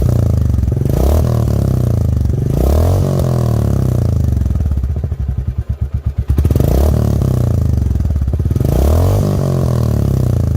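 Royal Enfield 350 single-cylinder engine through an aftermarket exhaust, blipped four times from a thumpy idle, with a short stretch of plain idle in the middle. The exhaust note is medium in loudness.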